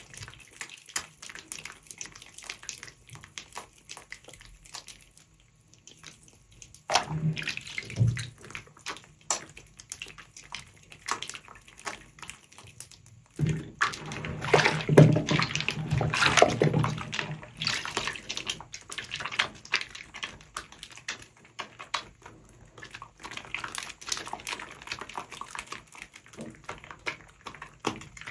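Soapy sponge being squeezed and worked in water, with fine crackling of foam throughout and louder wet squelching and sloshing about 7 seconds in and again from about 13 to 18 seconds.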